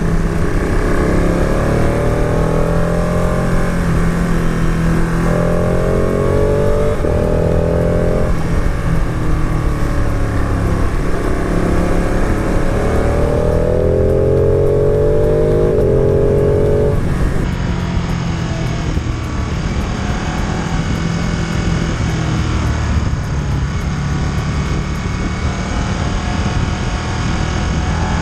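Motorcycle engine under way, its revs climbing through the gears several times, with a drop in pitch at each shift, over a constant rush of wind noise.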